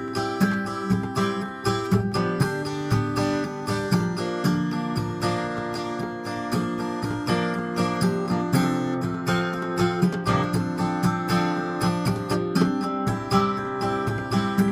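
Solo acoustic guitar playing an instrumental passage, a steady run of picked and strummed chords.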